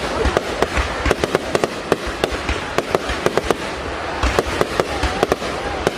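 Fireworks going off in quick, irregular succession: many sharp cracks and bangs over a continuous crackling hiss.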